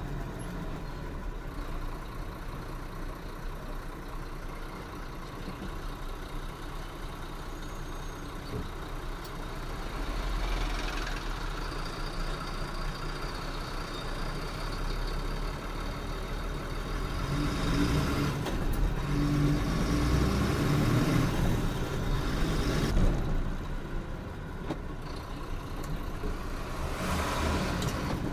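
Truck engine and road noise, steady, growing louder for a few seconds in the second half as the engine pulls harder, then easing off.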